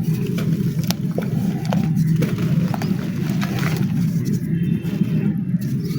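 Dry black clay being crushed and crumbling: a dense low crunching with scattered sharp little cracks.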